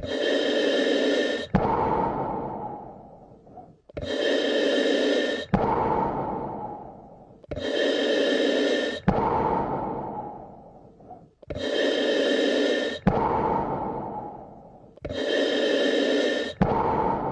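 Slow, regular human breathing, one breath about every four seconds. Each breath has a part about a second and a half long that starts and stops abruptly, followed by a longer part that fades away.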